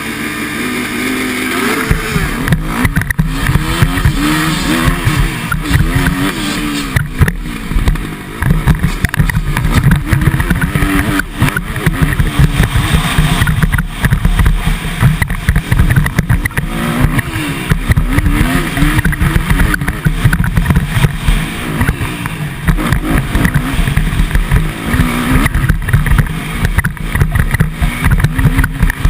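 Motocross motorcycle engine ridden hard, its pitch rising and falling over and over as the throttle opens and closes and the gears change.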